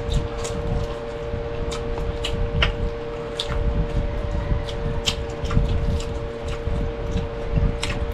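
Eating sounds close to the microphone: chewing with scattered sharp clicks of a spoon against a plate, over a steady hum.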